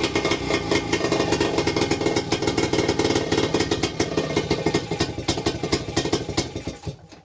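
A 1947 British Seagull 102 outboard's single-cylinder two-stroke engine running on fresh petrol after long storage, with a rapid, even firing beat. It slows and stops near the end.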